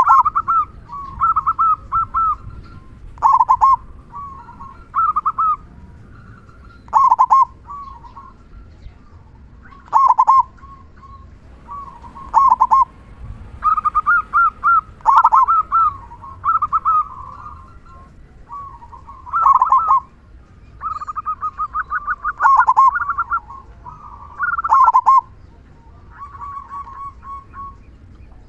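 Zebra dove (perkutut) cooing. Short, trilled coo phrases come every one to three seconds, with a fast run of stuttering notes about three-quarters of the way through.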